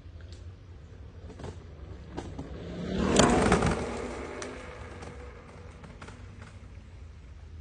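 A vehicle passes close by, rising to a peak about three seconds in and then fading away, with a few short knocks before it.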